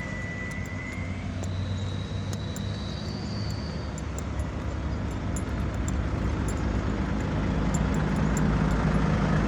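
A heavy truck's engine running, growing steadily louder as the truck draws near. A faint thin high whistle sounds over it in the first few seconds.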